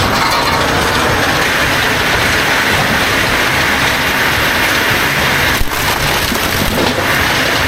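Heavy machinery running, a loud, steady, dense mechanical noise with a brief dip about five and a half seconds in.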